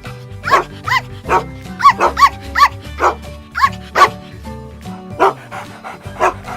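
Small dog barking repeatedly, short yappy barks about a dozen times, over cheerful background music.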